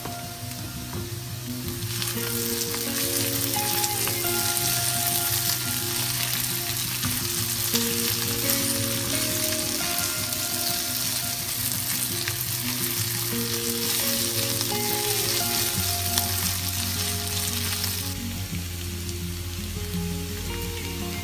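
Beetroot strips and garlic sizzling in hot oil in a frying pan, turned with a spatula. The sizzle swells about two seconds in and dies down a few seconds before the end, over soft background music.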